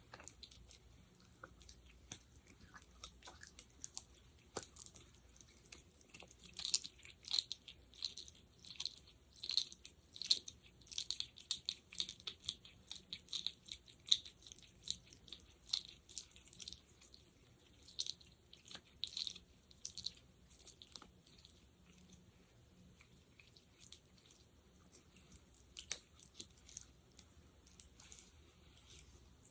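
Close-miked sticky gel being worked, giving many quick, irregular wet clicks and crackles. They are busiest from about six to twenty seconds in and sparser after.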